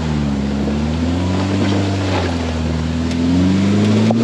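Polaris RZR Pro R side-by-side's four-cylinder engine revving up and down with the throttle, its pitch dipping and climbing a few times and falling away near the end, over tyre and trail noise.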